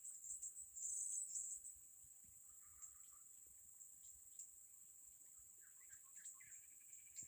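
Faint steady high-pitched insect drone, with scattered short bird chirps, a brief cluster about a second in and more later.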